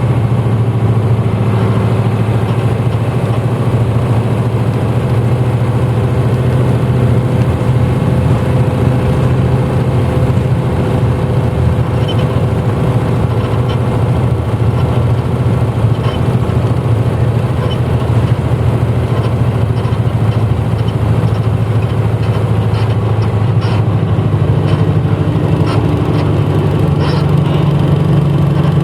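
Diesel engine of a 1994 Hino Blue Ribbon city bus heard from inside the cabin while driving, a steady drone whose pitch steps up about 24 seconds in as engine speed rises. A few faint clicks from the cabin sound over it.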